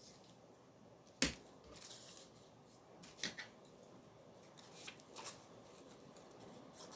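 Faint rustling of paper pieces being handled and sorted, with one sharp click a little over a second in and a few softer clicks and rustles later.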